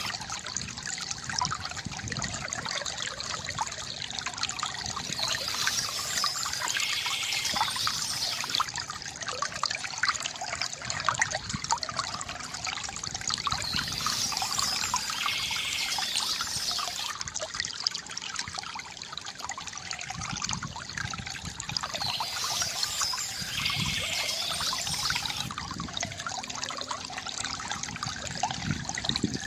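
Water from a bamboo fountain, flowing and gurgling steadily with a constant trickle and splash.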